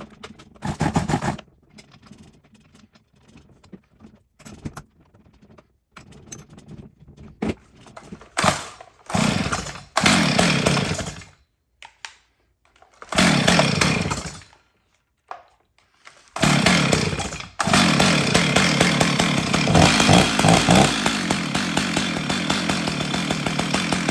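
Stihl 039 two-stroke chainsaw being pull-started: several short bursts as it is cranked and fires briefly, then it catches about two-thirds of the way in, stumbles once, and runs steadily, after its ignition coil gap and carburetor have been serviced.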